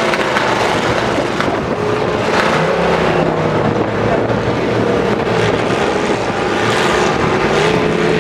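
Engines of several demolition derby trucks running hard together, a loud, steady mechanical din.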